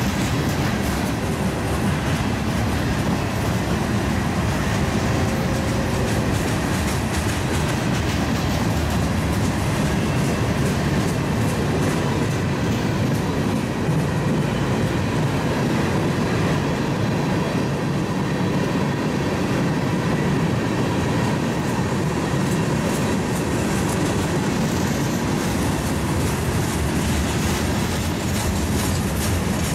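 A train's cars rolling past: a steady rumble with the wheels clicking over the rail joints.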